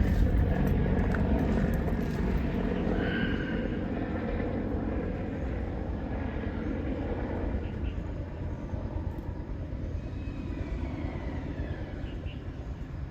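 Low, steady rumble of an aircraft overhead, slowly fading as it moves away.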